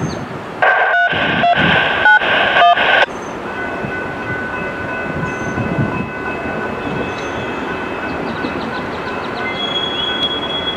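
Diesel-hauled Grapevine Vintage Railroad train running toward the listener with a steady rumble and faint high tones. About half a second in, a loud burst of hissing noise with tones cuts in for about two and a half seconds and stops abruptly.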